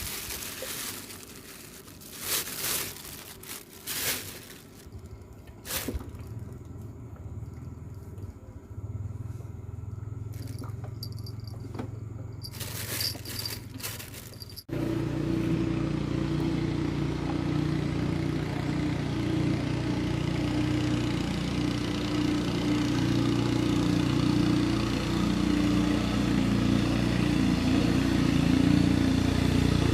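Scattered clicks and knocks of handling over a faint low hum. After an abrupt cut about halfway through, a motorcycle engine runs steadily.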